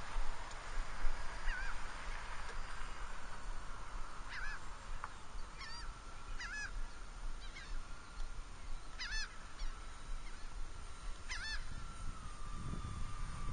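Distant steady whine of an RC plane's electric motors, its pitch dropping slightly near the end, with short honking bird calls several times over it.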